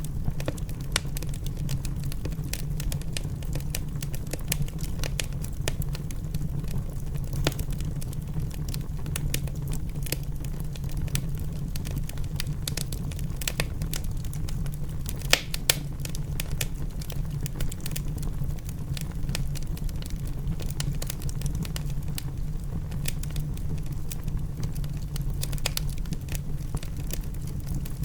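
Wood fire crackling in a fireplace: a dense run of small snaps and pops over a steady low rumble, with two sharper pops about halfway through.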